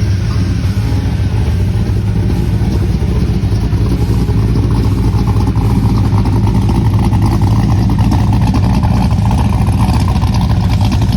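383 V8 engine in a Chevrolet C10 pickup, running steadily with a deep rumble that builds slightly in the second half.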